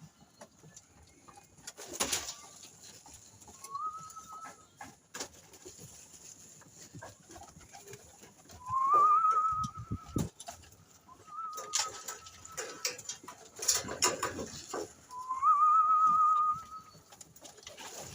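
A young bird repeatedly gives a drawn-out call that rises and then holds with a slight quaver, about five calls a few seconds apart. Short rustling bursts come between the calls.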